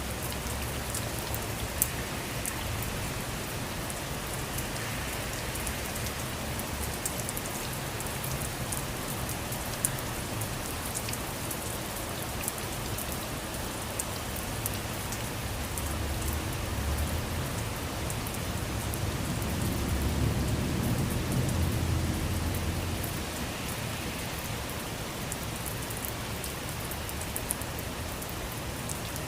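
Steady rain falling on a surface, with individual drops ticking through it. A low rumble swells for a few seconds past the middle, then fades back into the rain.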